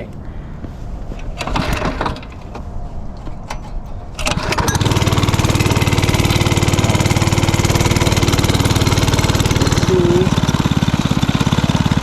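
Original 90cc single-cylinder mini bike engine being pull-started; it catches about four seconds in and then runs steadily, with a slight change in its note about ten seconds in.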